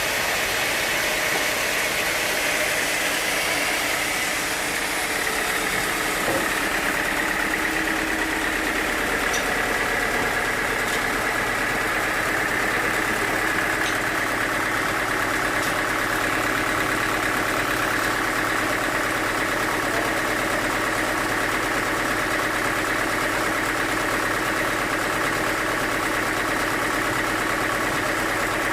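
Sawmill machinery running steadily: a constant hum with a level high whine over it, and a few faint ticks partway through.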